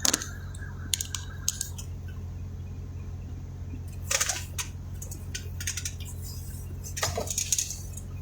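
Steady low hum inside a vehicle cab, with scattered clicks and rattles: a burst at the start, another about four seconds in, and more about seven seconds in.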